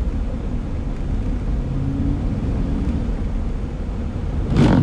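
Steady low road rumble and tyre noise inside a car driving on a slush-covered road. A brief, louder sound comes near the end.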